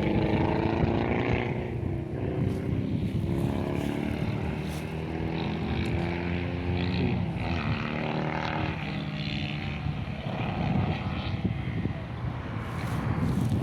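Propeller motor droning steadily, its several tones drifting slowly down in pitch, dipping about halfway through and rising again, over low wind rumble.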